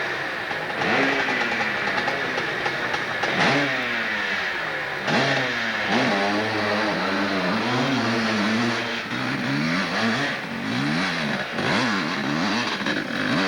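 Hill-climb motorcycle engine revving, its pitch climbing and falling again and again, with quick short blips of the throttle, about one a second, in the last few seconds.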